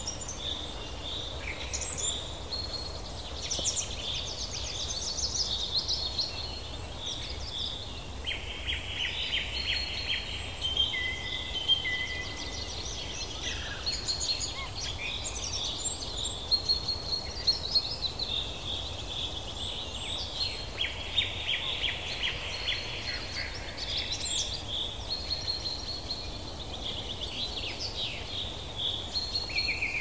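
Several birds singing and calling together, a busy mix of chirps, whistles and rapid trills, over a steady low background rumble.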